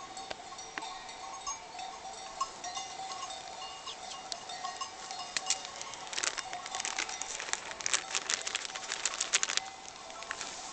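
Livestock bells on a grazing flock ringing steadily, breaking into a busier jangle of clinks about halfway through as the animals move.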